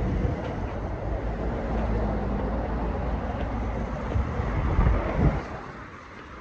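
Street noise with wind rumbling on the microphone and the sound of traffic. The noise drops off somewhat near the end.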